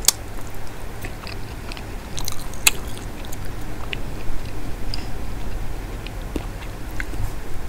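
Close-miked eating sounds: chewing and wet mouth clicks and smacks over a mouthful of soft mashed Bombay duck (lote fish) with rice eaten by hand. There is a cluster of sharp clicks about two and a half seconds in, over a steady low hum.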